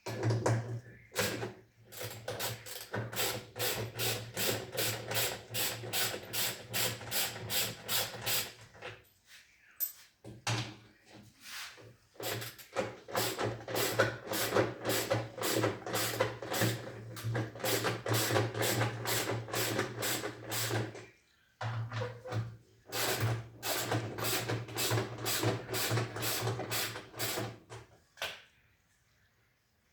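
A power tool running in three long bursts: a steady hum under rapid, even clicking, about four clicks a second.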